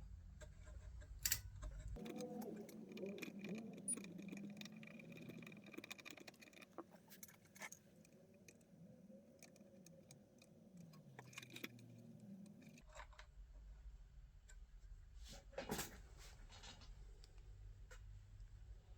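Faint scattered clicks and small metallic clinks, like parts or tools being handled, at a very low level.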